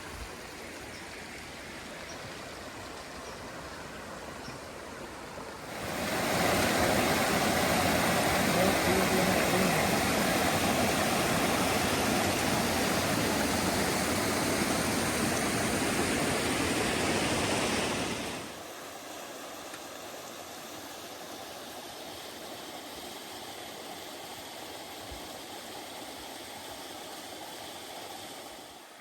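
Rushing stream water, a steady hiss. It gets much louder about six seconds in and drops back about twelve seconds later.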